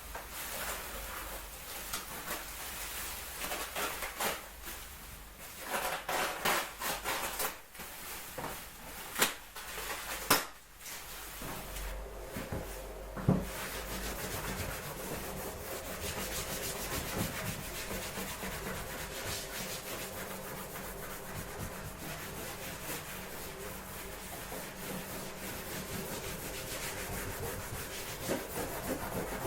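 Hand rubbing and scraping on a surface during repair work: uneven strokes with a few sharp knocks over the first half, then steady, continuous rubbing from about twelve seconds in.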